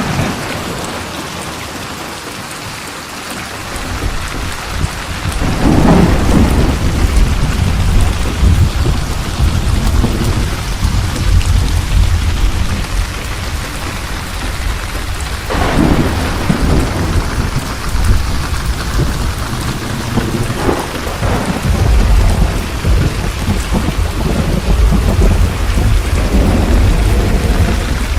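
Steady heavy rain with rolling thunder. Deep rumbles build about four seconds in and go on to the end, with louder peals at about five, fifteen and twenty seconds in.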